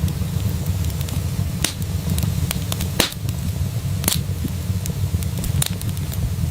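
Wood fire crackling in a fireplace: scattered sharp pops and snaps over a steady low rumble, with two louder cracks about three and four seconds in.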